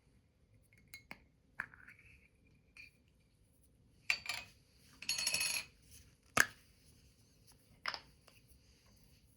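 Small objects being handled on a work surface: a few sharp clicks and taps with a short papery rustle about five seconds in, and one sharp click, the loudest, about a second later.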